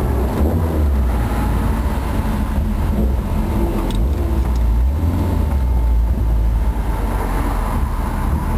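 Toyota Celica liftback's bored-out 2T-G twin-cam four-cylinder through its aftermarket muffler, running with a steady low rumble.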